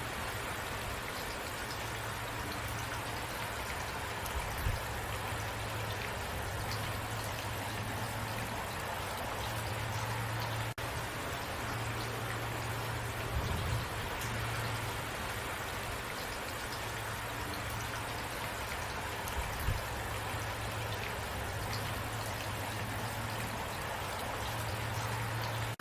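Steady rain falling, an even hiss with a few soft low thuds.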